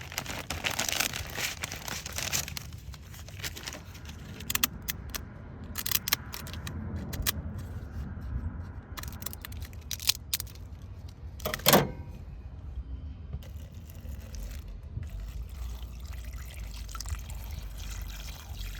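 Water being poured into a pot over the dried kelp for a kombu stock for the first couple of seconds, then scattered clinks and handling knocks, one of them sharp and loud a little past the middle, over a low steady rumble.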